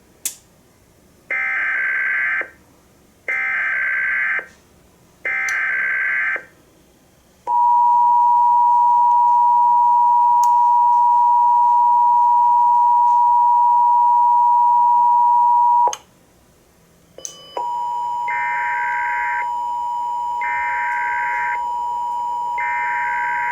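Emergency Alert System SAME header: three data bursts of about a second each, followed by the two-tone EAS attention signal held steady for about eight seconds and cut off sharply. After a brief gap a steady tone starts with three more header bursts sounding over it, the opening of the next alert.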